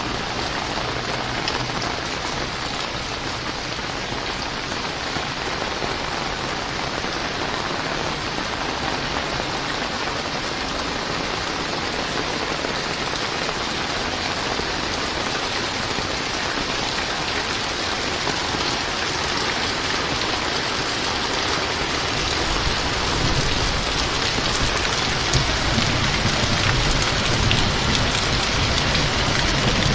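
Heavy rain falling steadily, a dense even hiss of drops on surfaces. A low rumble builds in about two-thirds of the way through.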